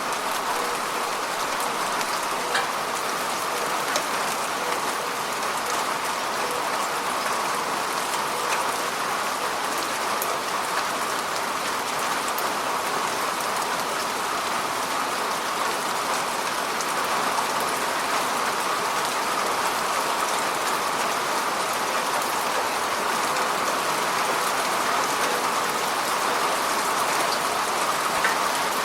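Heavy rain falling steadily, an even hiss of rain on surfaces with a few faint drop ticks.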